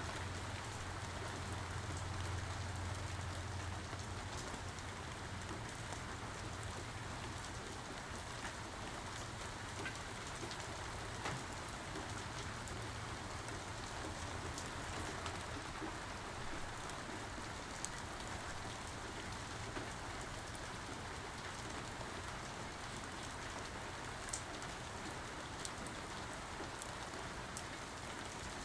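Steady rain falling, an even hiss with faint scattered drop ticks. A low rumble underneath fades out about four seconds in.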